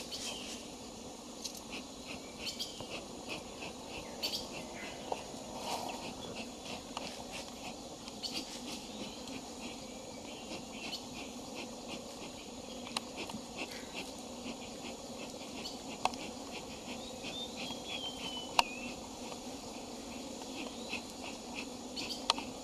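Tropical rainforest insects chirring steadily in high, even tones, under a low hum, with scattered clicks and ticks and one sharper click late on.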